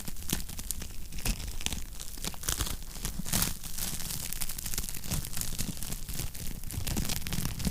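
Wood fire crackling in a fireplace: a dense run of irregular sharp pops and snaps over a steady low rumble.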